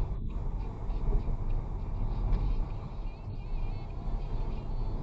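A vehicle driving along: steady low engine and road rumble mixed with wind rushing over the microphone, rising and falling a little without any distinct events.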